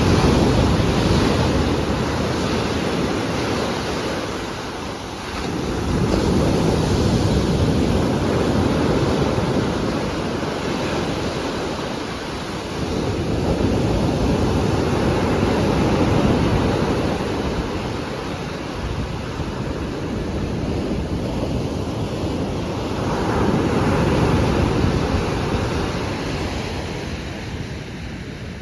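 Storm surf on the Black Sea: heavy waves breaking and rushing ashore in a steady roar that swells and eases about every six to nine seconds, with wind blowing across the microphone.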